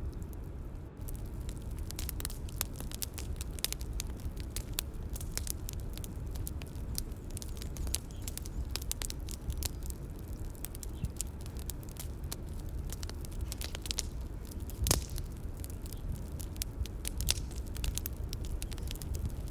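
Bonfire crackling: frequent irregular pops and snaps over a low steady rumble, with one louder pop about fifteen seconds in.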